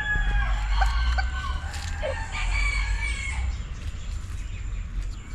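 Rooster crowing, its long drawn-out call tailing off in the first second or so, with another fowl call a couple of seconds later over a steady low rumble.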